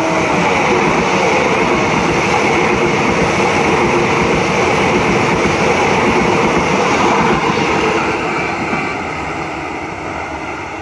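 A train passing close by at speed: steady rumble with rapid wheel clatter on the rails, easing off after about eight seconds. A horn note, dropping in pitch, trails off in the first second.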